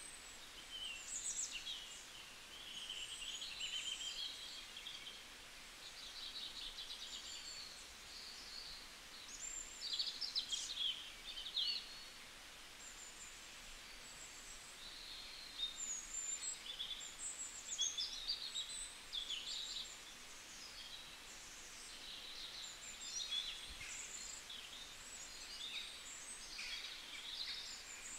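Birds chirping and singing: a busy stream of quick, high twitters and warbles coming and going throughout.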